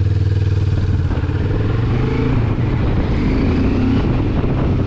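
Benelli TRK 702 motorcycle's parallel-twin engine running at low road speed, its note rising from about two seconds in as it speeds up a little.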